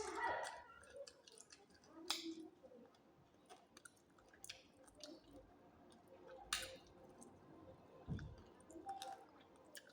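A person chewing roast chicken close to the microphone: soft wet mouth sounds broken by a few sharp crunches and clicks, and a dull low thump near the end.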